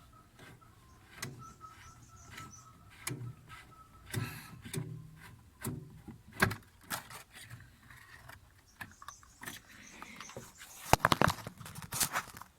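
Irregular clicks, taps and light metal rattles of hands working a washing machine's drain-valve pull linkage, re-hooking it onto a lever hole, with a burst of louder clicks near the end.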